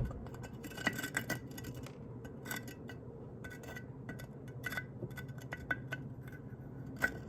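Scattered small clicks, taps and scrapes of a broken-off piece being handled and fitted back onto a homemade model volcano, with a sharp knock at the start and another near the end. A faint steady hum runs underneath.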